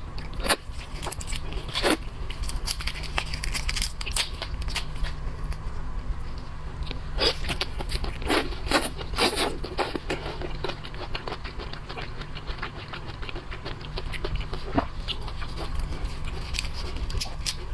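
Close-up eating sounds of a person working through spicy boiled shellfish: scattered clicks, crackles and scrapes of chewing and handling shell and meat, thickest in the middle, over a steady low hum.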